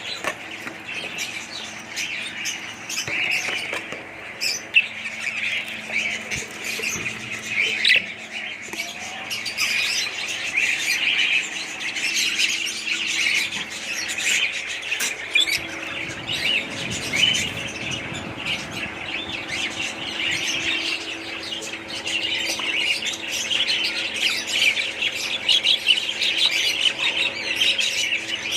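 A flock of budgerigars chattering continuously, with frequent short, sharp squawks over the warbling.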